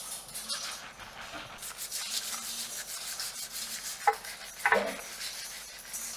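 Fingernails scratching through hair and scalp in quick, irregular rasping strokes. Two brief pitched sounds cut in about four seconds in and again just under a second later.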